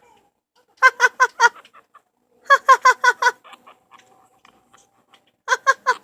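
Quaker parrot mimicking laughter: three bouts of rapid, clipped "ha-ha-ha" notes, five or six in each.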